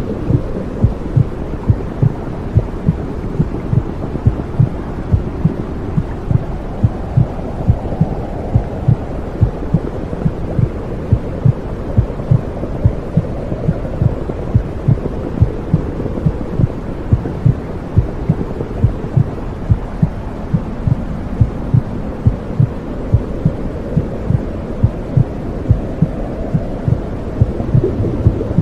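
Womb sound for soothing a baby: a steady, regular heartbeat of low thumps over a low whooshing rush that slowly swells and fades.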